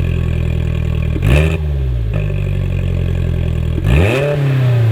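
2020+ Polaris Slingshot's 2.0-litre ProStar four-cylinder engine through a Thermal R&D front exit cat-back exhaust, idling with two quick throttle blips, about a second in and near the end. Each blip revs up sharply and falls back to idle.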